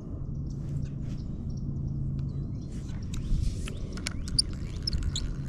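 Small birds chirping in short high notes, mostly in the second half, over a steady low rumble with a faint hum; a few light clicks.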